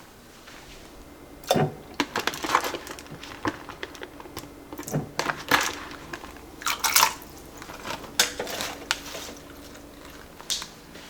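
Kitchen food storage containers being handled: irregular clicks and knocks, with short scraping sounds.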